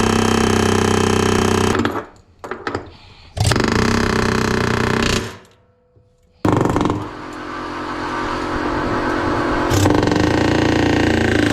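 A loud motor-driven machine running steadily, switched off about two seconds in, run again for a couple of seconds, then started once more about six and a half seconds in with a noisier sound that slowly grows louder.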